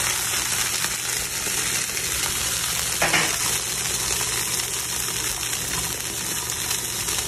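Slices of pink bologna frying on a hot Blackstone griddle greased with cooking spray, a steady sizzle. A brief louder sound breaks in about three seconds in.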